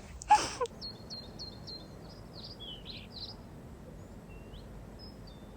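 Small birds calling: a quick run of short, high chirps starting about a second in, then a few scattered calls near the end. A brief human vocal sound comes at the very start.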